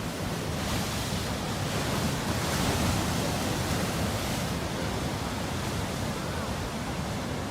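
Ocean surf: a big wave crashing and washing, as a steady rush of noise that swells over the first few seconds and then eases off.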